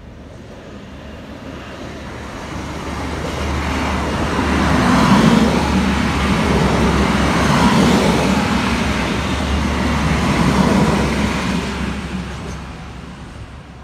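TransPennine Express Class 185 diesel multiple unit, two units coupled, passing close by: the diesel engine hum and wheel-on-rail noise build up, stay loud for several seconds with a few swells, then fade as the train moves away.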